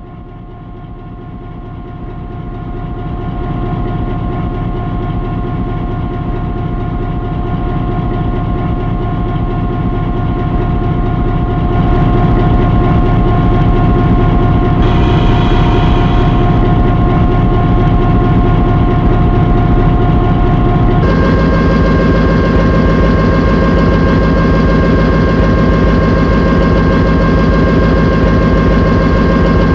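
A locomotive engine running with a fast, even low pulse and a steady whine. It grows louder over the first few seconds and steps up again about twelve seconds in. About two-thirds of the way through, its whining tones change pitch.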